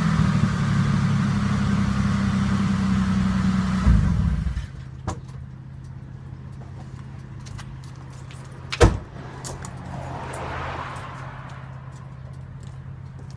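2002 Ford Explorer Sport Trac's 4.0 SOHC V6 running through a 30-inch Magnaflow glasspack dumped ahead of the rear tire, loud and steady. About four and a half seconds in it drops sharply to a quieter steady low hum. Scattered clicks and one sharp knock follow.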